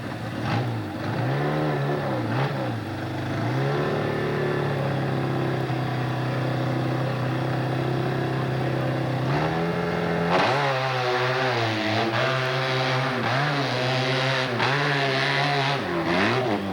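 Hill-climb motorcycle engine revving up and down, then holding a steady pitch for several seconds; about ten seconds in it gets louder and the pitch rises and falls rapidly as the throttle is worked hard.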